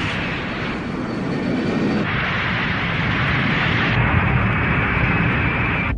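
Cartoon battle sound effects: a continuous loud din of explosions and cannon fire, changing character every second or two.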